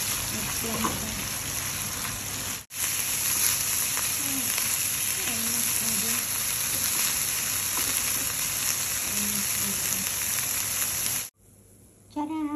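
Shrimp sizzling as they fry in butter in a pan, turned with a spatula. The steady sizzle breaks off for an instant about a quarter of the way in and stops abruptly near the end.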